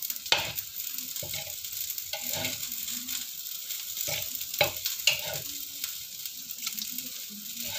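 Chopped garlic sizzling in hot oil in a wok while a metal spatula stirs and scoops through it. Several sharp clinks of the spatula against the pan cut through the sizzle: one about a third of a second in, and two close together around five seconds in.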